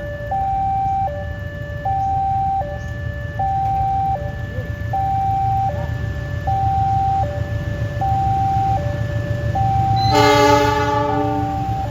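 Railway level-crossing warning alarm sounding two alternating tones, each held for about three-quarters of a second, over a steady low rumble. About ten seconds in, a train's multi-tone horn sounds once for about a second.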